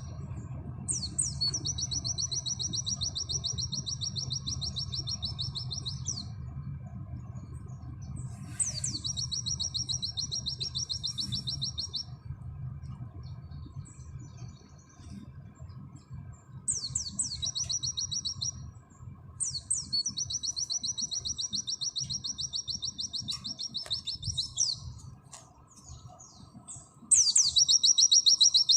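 White-eye (pleci) singing its rapid 'nembak' song: long, fast, even trills, each opening with a sharp downsweeping note, repeated about five times with short pauses. A steady low hum runs underneath.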